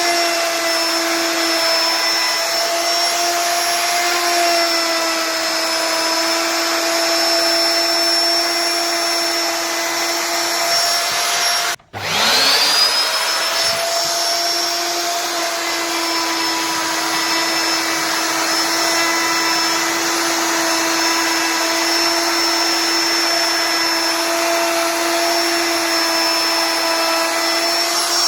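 CNC router spindle running steadily with a high whine as it carves wood. About halfway through the sound cuts out for an instant and comes back with a quick rising whine before settling again.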